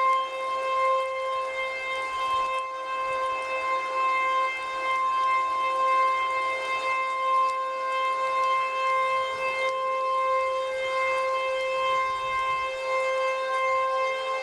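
Outdoor civil defense warning siren sounding a steady, unwavering tone, the alert signal for a tornado warning.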